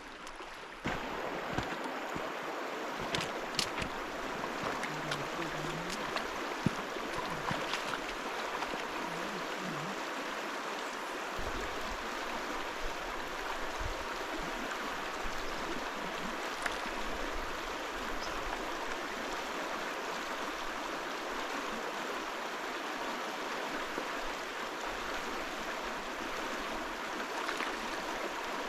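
Mountain river's flowing water, a steady rush that starts abruptly about a second in and holds evenly, with a few faint ticks over it.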